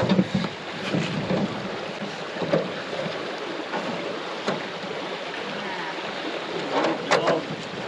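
Steady rush of water and wind on the microphone around an aluminum canoe, with scattered knocks in the first second and a short cluster of louder knocks about seven seconds in.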